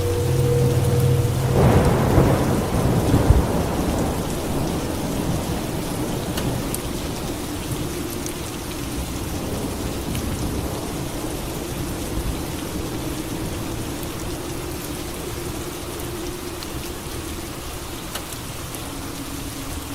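Steady rain with a clap of thunder about two seconds in that rumbles for a couple of seconds and dies away, the rain then going on evenly.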